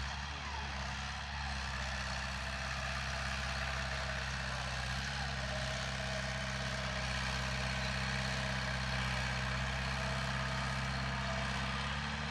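Heavy construction machinery's diesel engine running steadily at constant pitch, with no revving.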